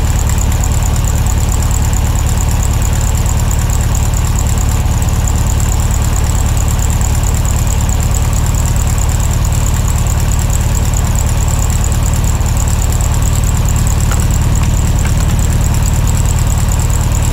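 Electric buffer running steadily with a thin high whine over a low hum, working on the canoe's hull.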